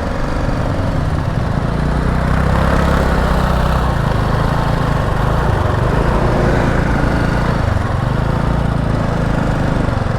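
A BMW G 310 GS motorcycle's single-cylinder engine running steadily, heard from on board the bike, with road noise.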